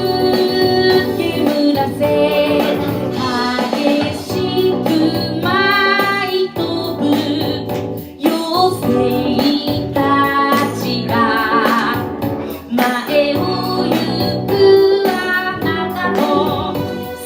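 A solo voice singing a song over instrumental accompaniment, with vibrato on the held notes.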